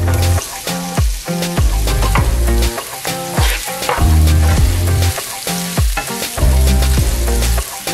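Sliced onions sizzling in hot olive oil as they are stirred around the pan with a wooden spatula, under background music with deep bass notes and a steady beat.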